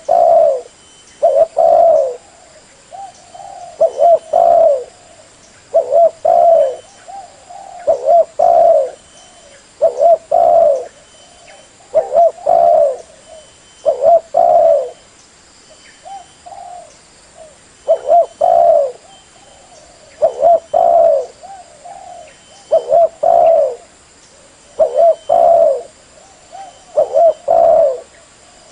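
Spotted dove (terkukur) cooing over and over: phrases of a few low coos, repeated about every two seconds.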